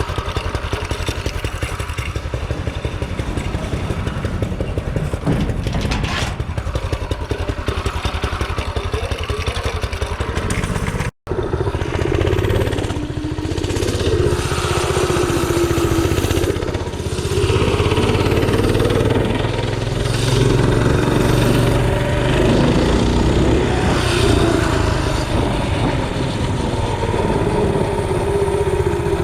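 Mini bike's small engine running under a ride, its pitch rising and falling with the throttle. The sound breaks off for an instant about eleven seconds in.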